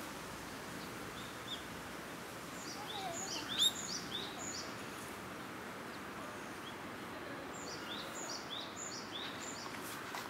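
Small birds chirping in two short bouts of quick, high, downward-sweeping notes, one early and one late, over steady background noise.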